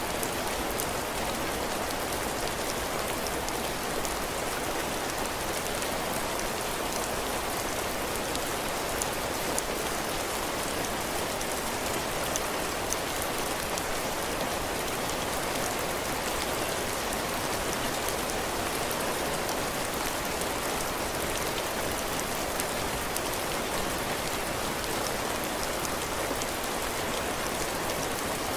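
Heavy rain falling steadily on a cabin porch, drops pattering on the roof and the ground, with many small drop ticks in an even rushing hiss.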